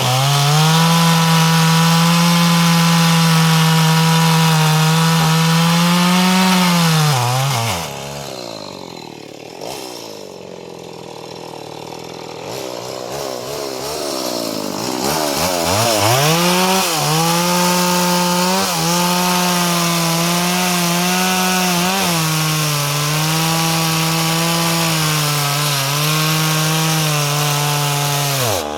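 Two-stroke chainsaw engine held at high revs, dropping back to a low, quieter run about eight seconds in, then revved up again from about fifteen seconds with several short dips in speed. This is a test run of the saw after a repair.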